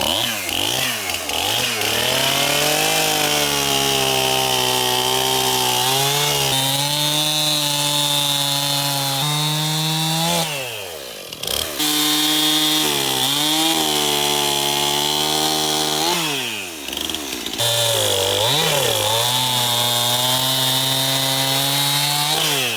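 Chainsaw running at high revs, cutting limbs and knots off a pine log, with a few short easings of the throttle and twice falling back to idle between cuts before revving up again.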